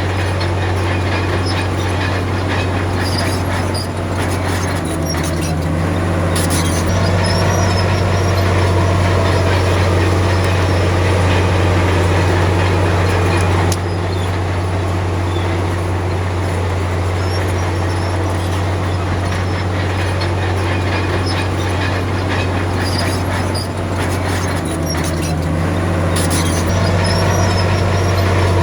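Komatsu D53P crawler bulldozer at work: its diesel engine runs with a steady low drone, with scattered metallic clanks and squeaks from the steel tracks.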